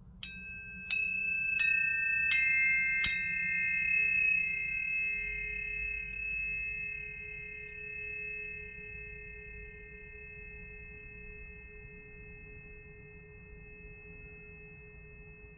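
Planetary tuning forks struck five times in quick succession, about one strike every 0.7 s. Several clear, high tones then ring on together and fade slowly over the following seconds.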